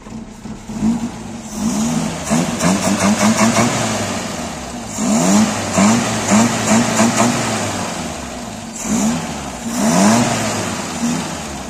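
Premier Padmini's 1089 cc four-cylinder petrol engine running and being blipped by hand at the carburettor throttle in three bursts of quick revs, right after a complete new carburettor kit has been fitted.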